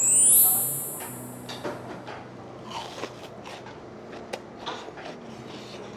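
A bright sparkling chime sound effect at the start, fading within about a second. Then scattered crunches of biting and chewing deep-fried shrimp tempura close to the microphone.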